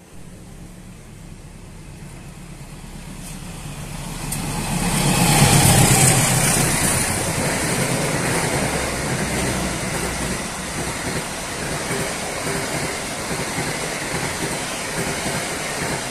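A train approaching and passing close by: the noise builds over the first few seconds, is loudest about five seconds in, then carries on as a steady loud rumble.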